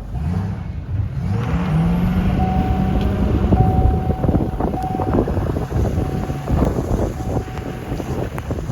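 2009 Duramax V8 turbodiesel pickup in four-wheel-drive low revving up and ploughing through a six-foot wall of snow. The engine's pitch climbs in steps over the first couple of seconds, then a dense, irregular rumble and knocking of packed snow striking the truck runs over the engine.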